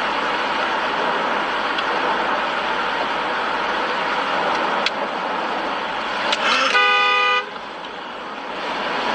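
A car horn sounds once, briefly, about seven seconds in, over steady road noise from traffic.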